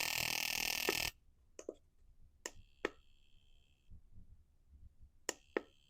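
Fuel injector fired by an injector pulse tester: a hiss of spray for about a second, then sharp clicks, two of them each followed by a high steady whine lasting about a second.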